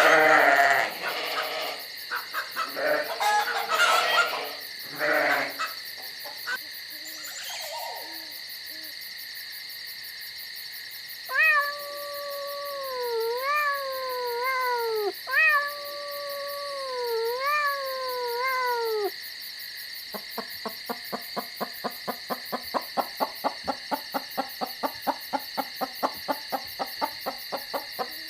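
Several different animal calls one after another: rough calls in the first few seconds, then a wavering pitched call, then a fast run of short pulsing calls. A steady high hum runs underneath throughout.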